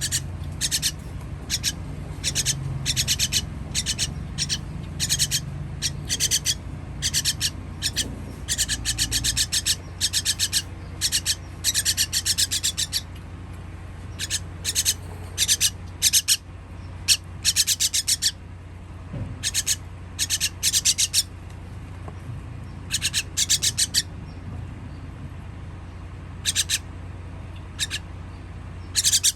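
Nestling birds giving raspy begging calls in quick repeated bursts, the sound of baby birds being fed. The calls come thick and fast through the first half, then thin out into scattered bursts with pauses.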